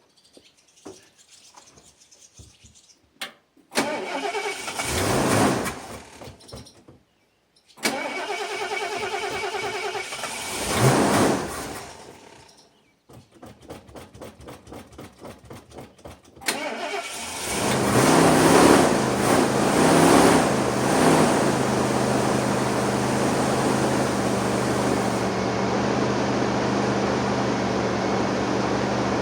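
Carbureted gasoline engine of a mid-1980s Ford motorhome, cold-started after two years of sitting. The starter cranks and it catches and dies twice, then cranks in steady pulses and fires a little over halfway through. It revs a few times and settles into a steady idle, still rough on fuel from a carburetor that the owner says needs a rebuild.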